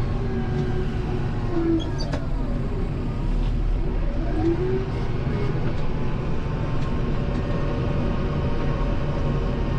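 Kubota M7060 tractor's four-cylinder diesel running steadily under work while pushing snow. Two brief squeaks, about a second and a half in and again past four seconds.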